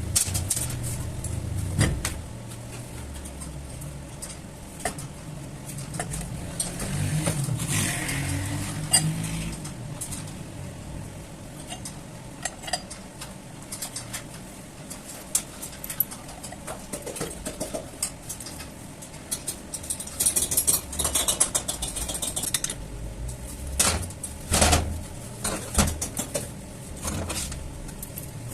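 Scattered metal clinks and knocks of tools and parts being handled, denser between about 20 and 26 seconds in, over a low vehicle hum that comes and goes.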